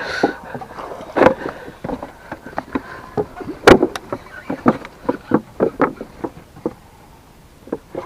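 Irregular knocks and taps on a small fishing boat, a dozen or more short strikes over several seconds, the loudest about a second in and near four seconds in, thinning out near the end.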